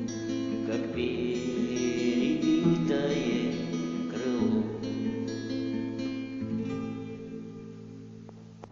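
Acoustic guitar strumming chords under a voice singing a long, wavering final line, the strings then ringing out and fading near the end, with a small click as it dies away.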